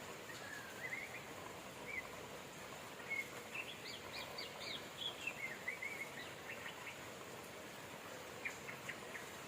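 Steady rain hiss with small birds chirping over it: a quick run of rising chirps in the middle and a short burst of chirps near the end.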